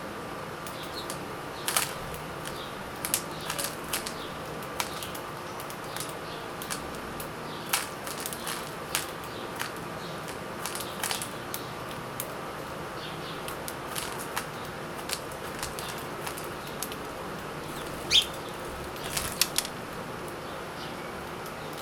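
Birds feeding, with irregular sharp taps and clicks of beaks pecking at food and brief wing flutters, over a steady hum.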